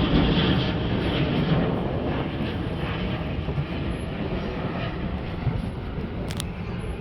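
Engine noise of a military airplane flying over, loudest at first and slowly fading as it moves away; a brief click about six seconds in.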